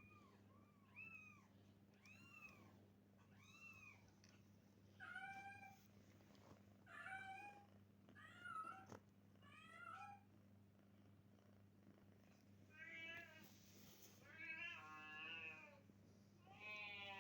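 Kittens meowing: a string of short, high-pitched meows about once a second, then longer, lower meows with a wavering pitch in the last few seconds.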